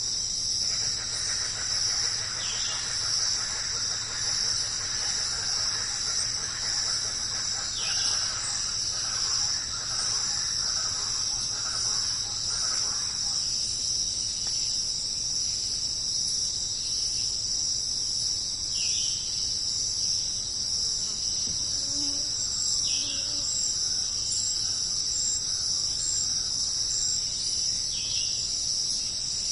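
Steady, high-pitched chorus of insects trilling, with a handful of short falling calls, about five, scattered through it.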